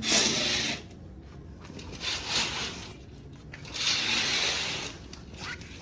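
Curtain being drawn shut: three sweeps of fabric and hooks sliding along the rail, each about a second long.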